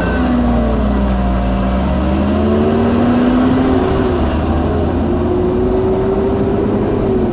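A car engine running hard under acceleration, its pitch slowly climbing and then shifting about four seconds in.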